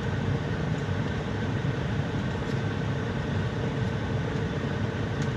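Steady low rumble and hum inside a semi-truck cab.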